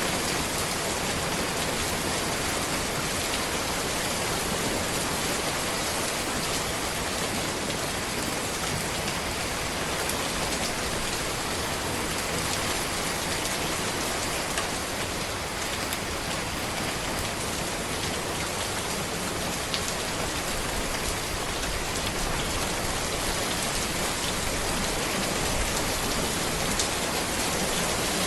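Steady rain falling on a road and trees, an even hiss with scattered individual drop ticks.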